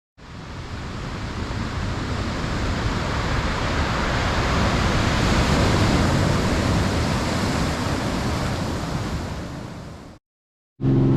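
A rushing noise like breaking surf fades in, swells for several seconds, then fades and cuts off. Just before the end, after a short silence, a boat engine's steady low hum starts.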